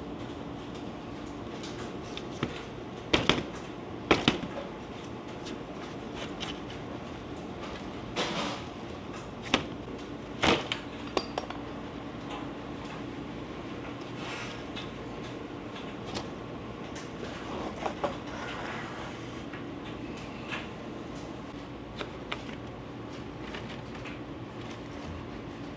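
Steady hum of running machinery with a handful of sharp knocks and clatters, the loudest two close together a few seconds in and more scattered through the middle.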